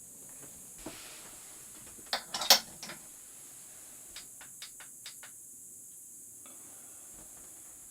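Hard objects being handled: a few clicks and clinking clatters, loudest in a short burst about two and a half seconds in, then several lighter clicks a couple of seconds later.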